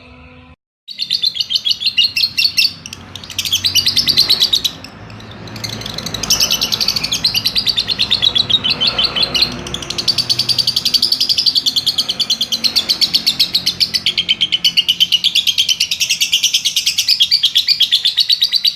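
Lovebird singing the long 'ngekek' song: a fast, shrill, unbroken rattle of chirps held for many seconds at a stretch, with only brief breaks near the start and around three and five seconds in.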